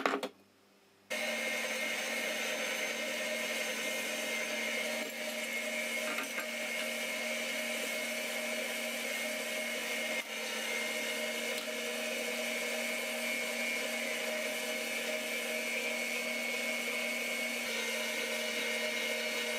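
Electric vertical slow juicer (auger type) starting up about a second in, then running steadily with a motor hum and whine as it crushes pineapple pieces into juice.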